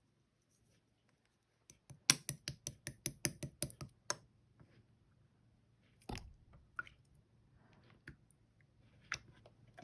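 Slime being pressed and worked by hand, giving a quick run of sharp clicks and pops, about five a second, starting about two seconds in and lasting about two seconds, then scattered single pops.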